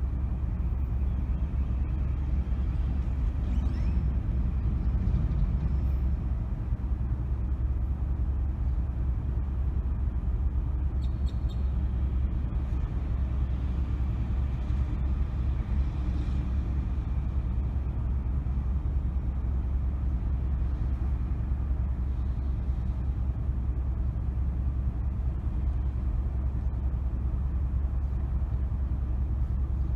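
Steady low rumble of a car driving, engine and tyre noise, with a few faint clicks about a third of the way in.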